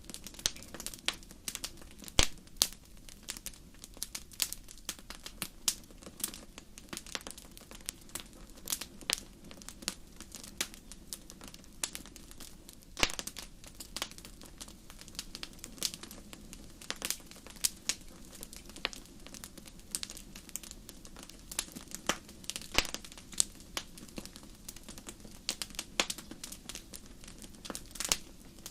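Wood fire crackling in a fireplace: a steady low rush of burning with frequent irregular sharp pops and snaps, a few of them much louder than the rest.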